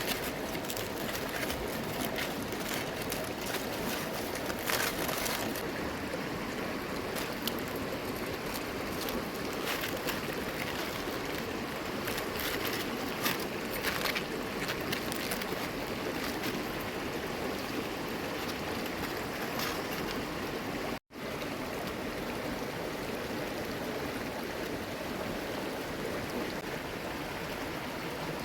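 Steady rushing of a flowing river, with a few short clicks in the first half. The sound drops out for an instant about two-thirds of the way through.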